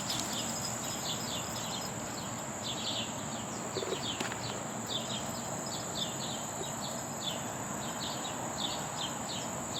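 Outdoor ambience: birds chirping in quick short notes, a few each second, over a steady high insect-like whine and a low background hiss.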